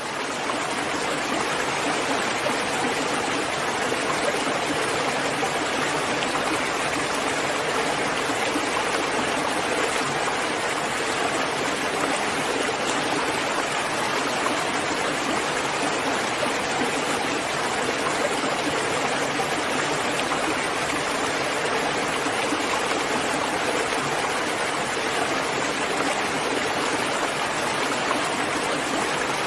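Steady heavy rain, an even hiss with no breaks, fading in over the first moment.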